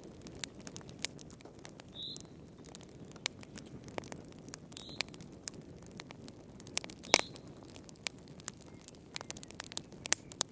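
Wood fire burning in a fireplace, crackling with irregular sharp pops over a steady low rustle of flames, and one louder pop about seven seconds in.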